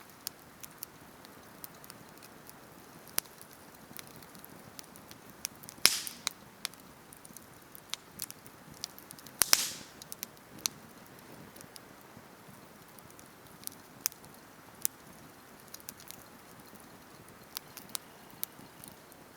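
Wood campfire crackling: sparse sharp snaps over a low hiss, with two louder crackling pops about six and nine and a half seconds in.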